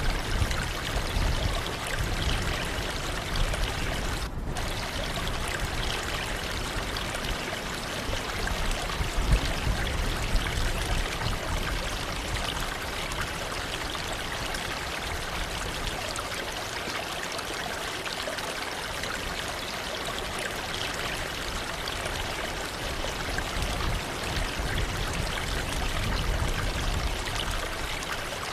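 Waterfall: water falling and rushing steadily, with an uneven low rumble underneath.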